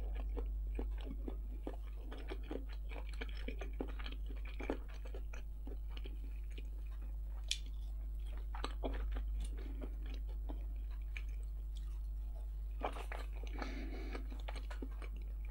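Close-miked chewing of fried country-style potato wedges: wet mouth sounds with scattered small crunches and clicks, a denser spell of chewing about 13 seconds in. A steady low hum runs underneath.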